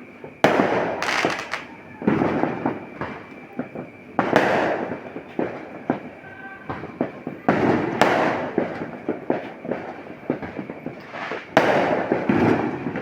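Fireworks going off repeatedly, with a loud bang every two to four seconds, each fading out, and smaller crackling pops in between.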